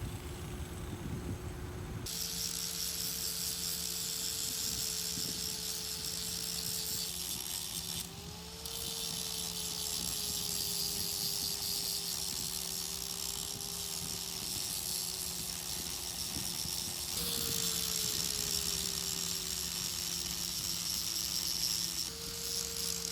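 Steady mechanical hum with a high hiss from running machinery, changing abruptly every few seconds.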